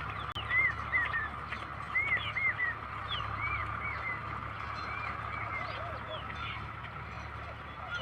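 Chorus of small animals chirping: many short, arched chirps that overlap, over a steady high drone and a low rumble.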